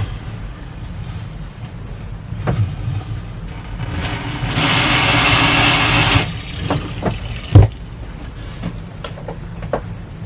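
Handheld shower sprayer turned on briefly: a hiss of water spray that starts and stops suddenly after under two seconds, over a steady low hum. A sharp knock comes a little later.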